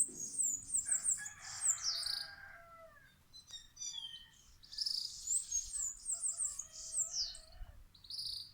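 Wild songbirds singing, two bursts of quick, high, downward-sliding notes, with a rooster crowing faintly in the background during each burst.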